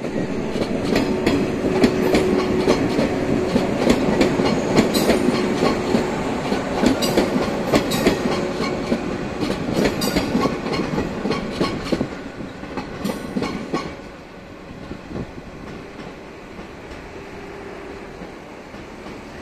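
Yellow electric multiple unit (Okayama depot set B18) passing by: wheels clacking over rail joints over a steady hum. The sound is loudest through the first dozen seconds, then drops off about 14 seconds in as the train pulls away.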